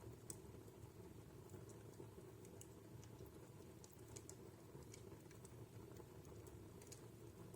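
Wood fire in a home fireplace crackling faintly: scattered small snaps and pops at irregular intervals over a low, steady background.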